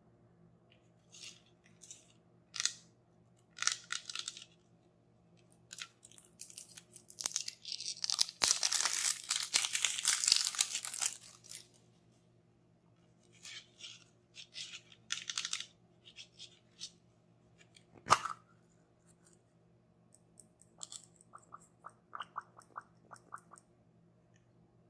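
Toy packaging handled and torn open by hand: scattered crinkles and rustles, then a dense stretch of tearing and crunching in the middle lasting about three seconds. A single sharp click follows a few seconds later, and light rapid ticking comes near the end.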